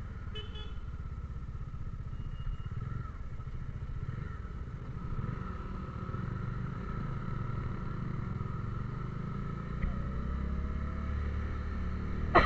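A motor vehicle's engine running steadily on the move, with a low rumble and a faint steady whine. A sudden louder sound falling in pitch comes right at the end.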